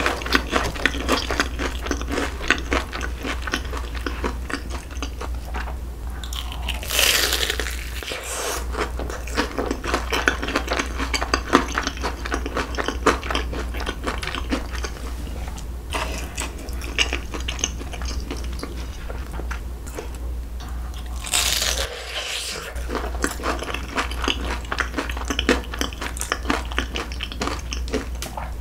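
Close-miked crunching and chewing of crisp, batter-fried food on a stick, a steady run of crackly bites with no talking.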